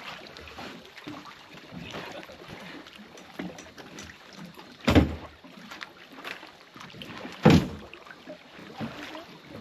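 Two loud, heavy thumps about two and a half seconds apart as a heavy crab pot is hauled aboard and knocks against a small aluminium boat, among lighter knocks and clatter.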